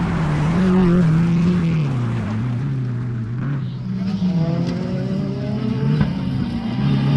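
Rally car engine running hard through a stage, its note falling about two seconds in and climbing again through the gears, with a second rising engine note joining about four seconds in.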